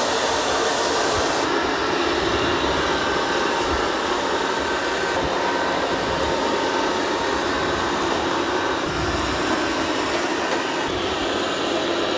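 Dreame X30 Ultra robot vacuum-mop running steadily, its suction motor whirring while its spinning mop pads work over a hard floor. The hiss at the top of the sound drops away about a second and a half in.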